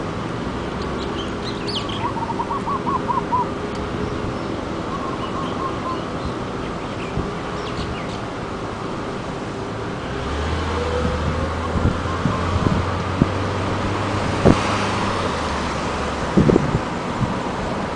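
Birds chirping, with a quick run of repeated notes a couple of seconds in, over the steady hum of a slowly moving car; a low rumble grows louder about ten seconds in.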